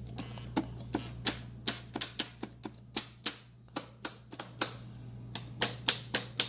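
HO scale model train running over the track, its wheels clicking irregularly, about three or four times a second, over rail joints and turnouts, with a steady low electric hum beneath.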